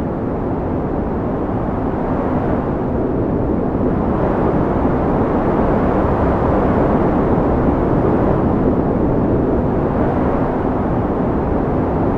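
Strong wind blowing: a loud, steady low rush with no distinct events, swelling gradually and easing slightly near the end.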